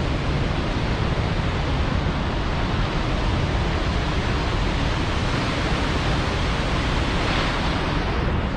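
Cumberland Falls, a big river waterfall, pouring with a steady, even rushing noise.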